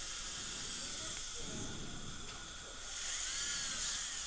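Steady high-pitched hiss of dental operatory equipment during implant-screw retrieval work. It dips about two seconds in, then swells again, with a faint whine that rises and falls near the end.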